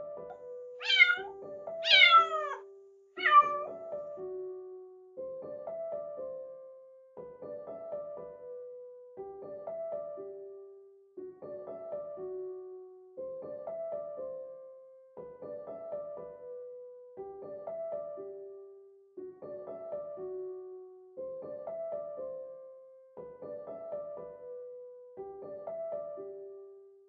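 A kitten meowing three times in quick succession about a second in, each meow high and falling in pitch, over gentle piano music that repeats a short phrase every couple of seconds.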